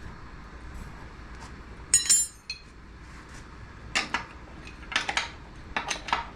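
A wrench clinking against an outboard lower unit's mounting nuts and metal casing. There is one ringing metallic clink about two seconds in, then a run of short, sharp clicks and clinks in the second half.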